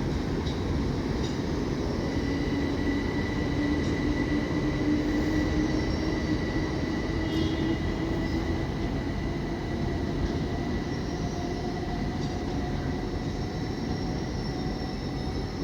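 Passenger train moving slowly through the station: a steady rumble with a faint, steady high whine.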